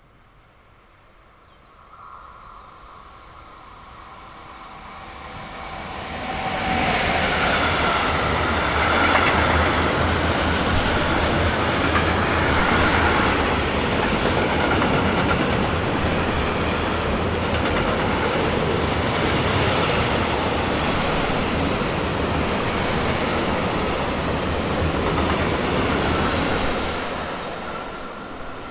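Long freight train of tank wagons passing through a station on electrified double track. It starts as a faint whine about two seconds in, swells into a loud, steady rush of wheels on rail for some twenty seconds, then fades as the last wagons pull away.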